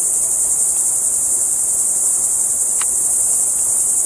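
Loud, steady high-pitched buzz of a chorus of insects in the forest, unbroken throughout.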